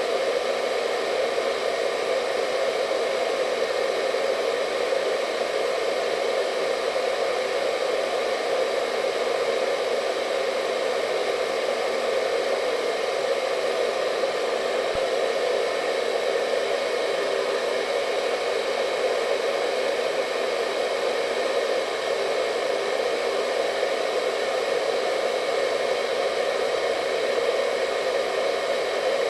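Hair dryer running steadily: an unchanging blowing hum with a faint steady whine above it.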